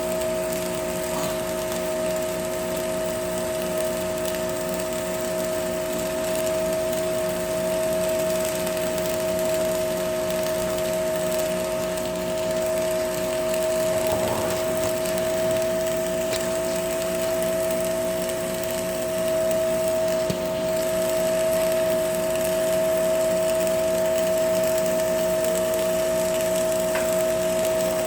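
Arc welding: a steady buzzing hum with a faint crackle.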